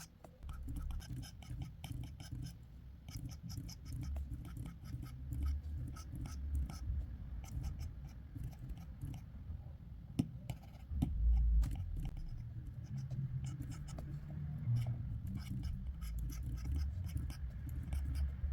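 Drawing strokes scratching on paper, short and irregular, with a low rubbing rumble from the drawing surface and a dull bump about eleven seconds in.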